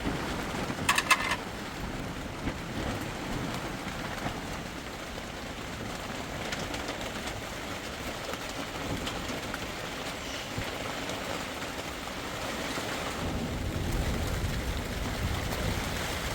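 Heavy rain falling steadily, with a short cluster of sharp clicks about a second in. A low rumble grows louder near the end.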